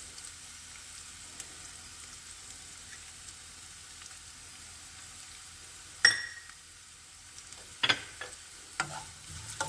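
Chopped ginger and slit green chillies sizzling gently in hot sesame oil in a kadai, a steady faint hiss. A sharp metallic clink that rings briefly about six seconds in, and a shorter knock about two seconds later.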